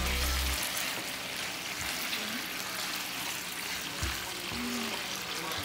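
Chicken thighs and green beans sizzling in a frying pan, stirred with a wooden spatula; the chicken is frying in its own fat after the kamias broth has cooked down.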